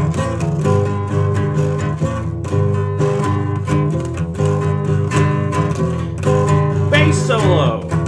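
Acoustic guitar strumming chords in a steady rhythm, an instrumental passage of a song. A short glide falls in pitch near the end.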